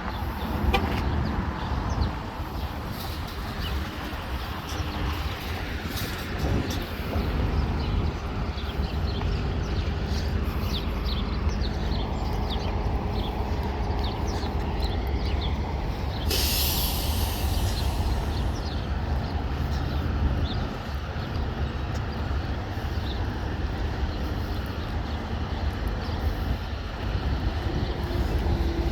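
Heavy diesel engine idling with a steady low rumble. A little past halfway comes a short hiss of compressed air, about two seconds long, like an air brake releasing.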